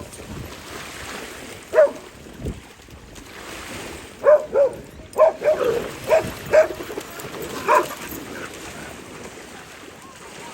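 A dog barking: one bark about two seconds in, then a run of about seven short barks a few seconds later.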